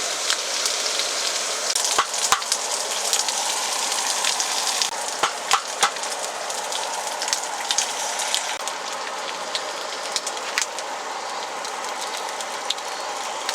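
Campfire crackling: a steady hiss with irregular sharp pops, a few louder ones about two seconds in and around five to six seconds in.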